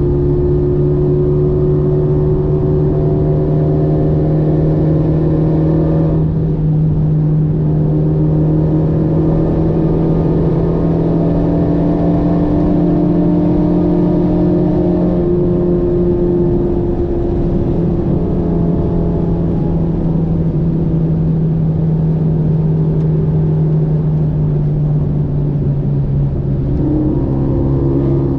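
Renault Megane 3 RS 275 Trophy's turbocharged four-cylinder engine running under way, heard from inside the cabin over steady tyre and road noise. Its note changes pitch sharply about six seconds in and again around fifteen seconds.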